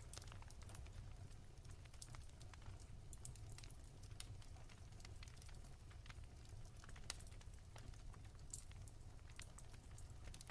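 Wood fire crackling in a fireplace: soft, scattered pops and snaps, irregular and a few a second, over a low rumble.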